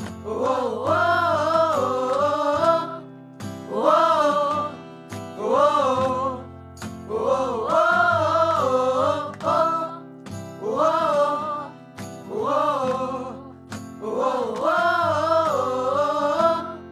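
Pop song with voices singing short wordless "oh, oh" phrases that rise and fall in pitch, over held accompaniment chords.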